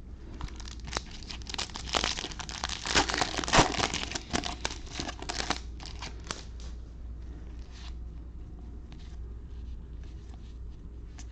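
A wrapper on a pack of baseball cards being torn open and crinkled: a dense crackling lasting several seconds, then a few scattered light clicks.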